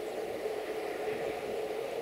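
A train's steady hum, its engine or traction equipment running without a break.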